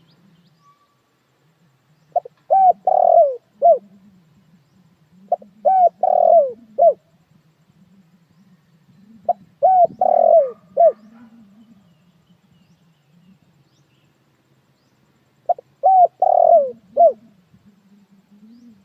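Spotted dove cooing: four phrases of its short, several-note coo, each ending in a falling note, a few seconds apart. It is a decoy call for luring wild doves.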